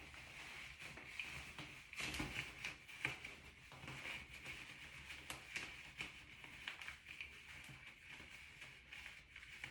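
Faint rustling and scattered light clicks of hands working on a wig's hair, tying an elastic band around it, over a steady low hiss.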